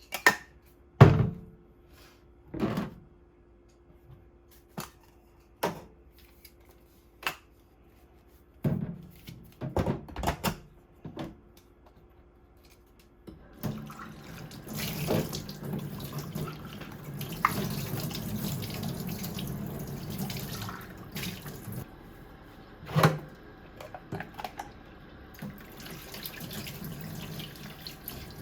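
A series of separate knocks and clatters, then from about halfway through a tap running water steadily into a sink, with a few knocks over it.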